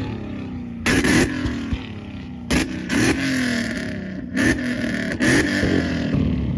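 A car engine revved hard in about five quick blips, each snapping up and then falling away in pitch as the revs drop back toward idle.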